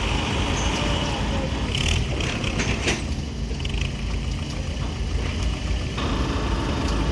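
Heavy tractor diesel engine running steadily, with a few short hissing or rattling bursts about two to three seconds in.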